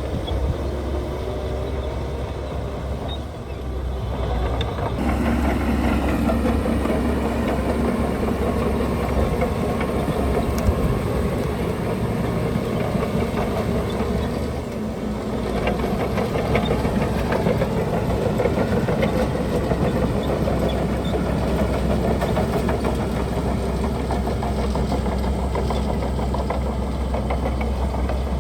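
Heavy diesel construction machinery running steadily with a deep engine rumble, which grows louder about five seconds in.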